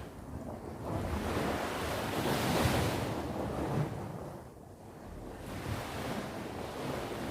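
Sea waves breaking and washing on the shore, swelling about a second in and again after a quieter dip in the middle, with some wind on the microphone.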